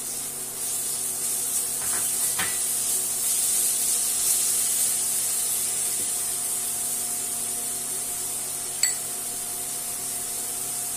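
Chopped tomato frying in hot oil in a wok, a steady sizzling hiss as it is stirred with a spatula, with a couple of light taps of the spatula on the pan.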